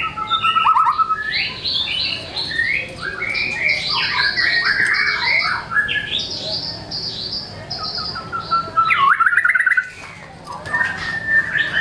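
White-rumped shama (murai batu) in full song, running quickly through a varied string of notes, trills and mimicked phrases. It breaks off briefly near the ten-second mark, then goes on with a drawn-out whistle.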